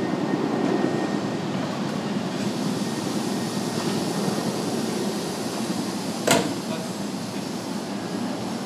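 Steady hum and hiss of a stationary electric commuter train's air-conditioning and auxiliary equipment at a platform, with a single sharp knock about six seconds in.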